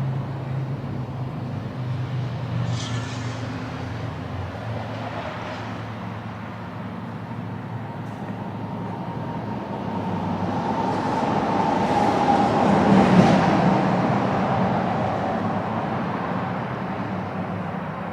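Road traffic: a steady low engine hum, with a vehicle passing close that swells to its loudest about 13 seconds in and then fades.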